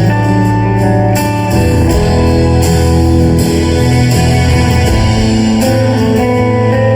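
Live rock band playing with guitar to the fore, chords ringing steadily over a low bass line.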